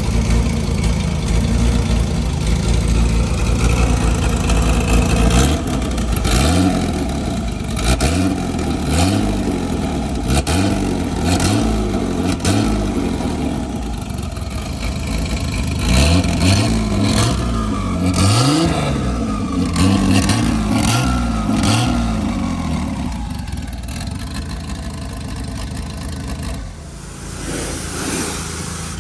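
1988 Nissan 300ZX (Z31) turbocharged VG30 V6 running, at first idling, then being revved in repeated quick throttle blips, the pitch rising and falling about once a second, with sharp cracks among the revs, before settling back toward idle near the end.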